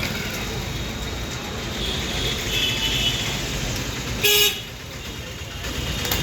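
Road traffic noise with one short, loud vehicle horn honk a little over four seconds in.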